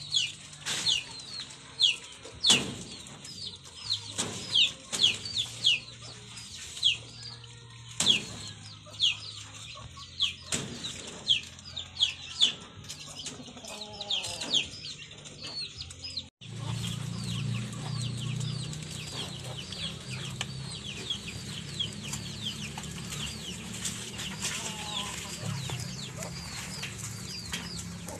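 A bird's rapid, high-pitched peeping, short falling chirps several times a second, over sharp rustles and knocks from rabbits feeding on banana leaves in a wire-mesh cage. About halfway the sound cuts off abruptly, and a steady low hum comes in under fainter peeping.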